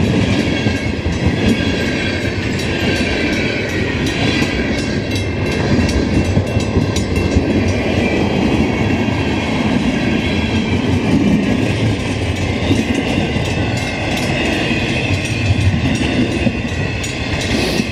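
Canadian Pacific freight train's cars rolling past close by: a steady loud rumble of steel wheels on rail with many quick clicks and clacks as the wheels cross the rail joints.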